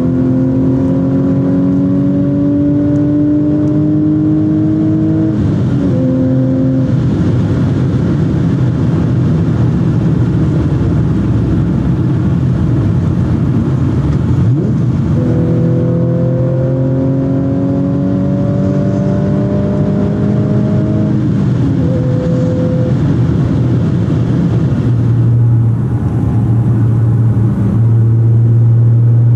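Tuned Audi S4 B8's supercharged 3.0 V6 with X-pipe exhaust and APR intake, heard from inside the cabin under hard acceleration. The engine note climbs steadily in pitch and breaks off at a gear change about five seconds in, climbs again from about fifteen seconds with another gear change near twenty-two seconds, then settles into a steady low drone near the end.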